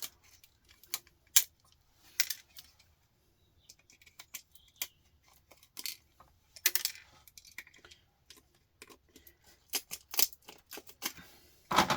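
Scattered light clicks and clinks of small metal and plastic parts being handled while a computer power supply is taken apart, with a brief scrape about seven seconds in and a louder clatter near the end.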